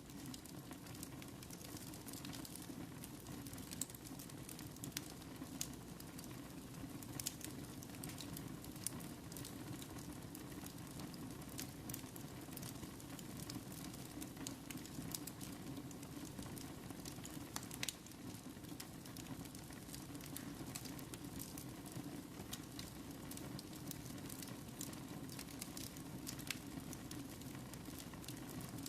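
Wood fire burning in a fireplace, a steady low rush of flames with frequent irregular sharp crackles and pops, one louder pop about eighteen seconds in.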